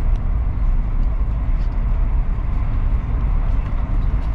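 Steady running noise of a Chinese high-speed train at speed, heard from inside the passenger carriage: a constant low rumble with a lighter hiss above it.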